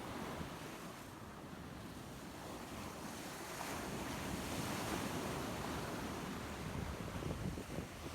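Surf washing up on a sandy beach, swelling louder about midway, with wind buffeting the microphone.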